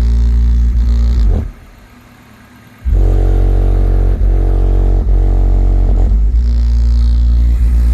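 Kong Audio subwoofers in a car pounding out a deep bass demo track in a steady repeating beat. The bass drops away for about a second and a half near the start, then comes back at full strength.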